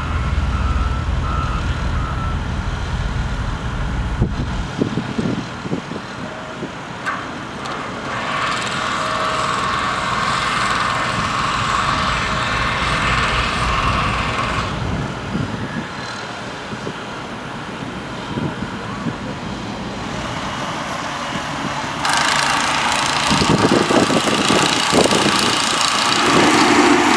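Heavy construction equipment engines running, with a low engine rumble for the first few seconds. Louder stretches of mechanical noise come about a third of the way in and again near the end.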